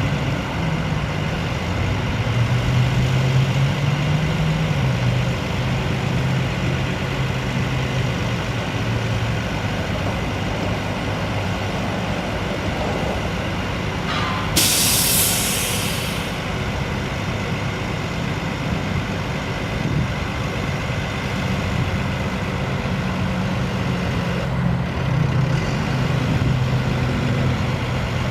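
International DT466 diesel engine of a bucket truck running steadily, its note rising and falling a little at times. About halfway through, a loud hiss of air lasts about a second and a half, typical of the truck's air brakes releasing air.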